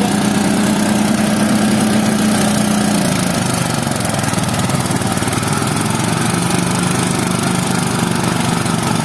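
An engine runs steadily and loudly, its hum dropping slightly in pitch about three seconds in.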